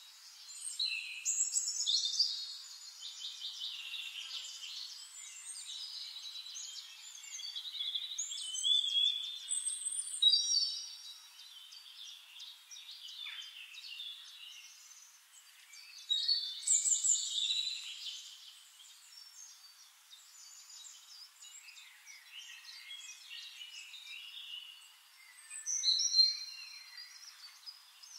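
Birds chirping and singing, with many short calls overlapping and rising in louder spells several times.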